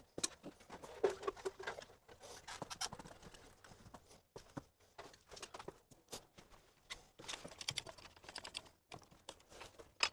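A string of light, irregular clicks and knocks from fitting a door frame into its opening and setting a clamp on it.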